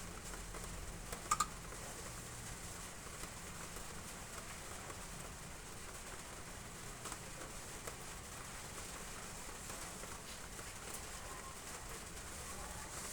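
Rain pattering steadily on roof tiles, with a short, sharp double click a little over a second in.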